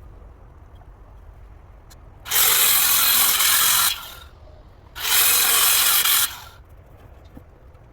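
Power drill driving screws into the gate's wood, run in two bursts of about a second and a half each with a short pause between.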